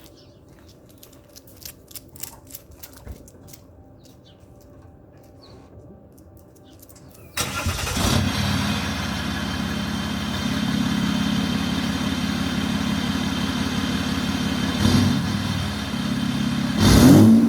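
A 2015 EcoDiesel pickup's 3.0-litre V6 turbodiesel, heard through its new exhaust tip. After a few faint clicks, it cranks and starts about seven seconds in, then idles steadily. Near the end it revs up briefly, the loudest moment.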